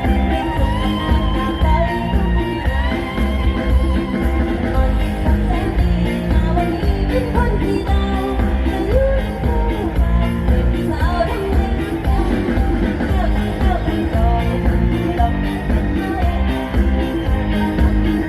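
Live luk thung band music with singing over a steady heavy beat and guitar, played loud through a PA.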